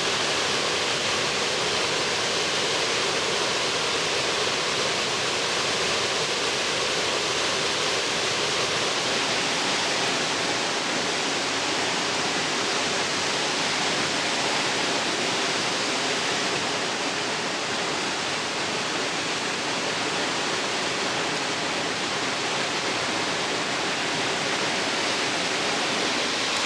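Waterfall rushing, a steady even wash of falling water that holds level throughout.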